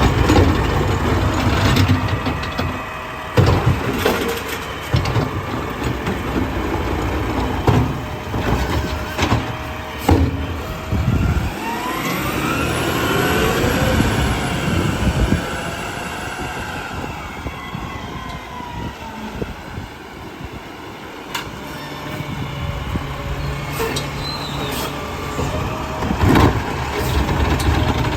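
Garbage truck running while it packs trash, with a heavy engine sound and several sharp knocks and bangs. Around the middle, rising whines climb in pitch as the truck works harder. Near the end it settles to a steady idle.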